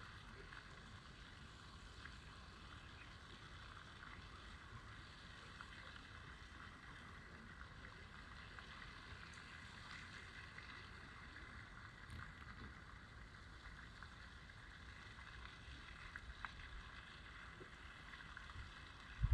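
Faint, steady ambient noise: a low rumble under an even hiss, with no distinct events.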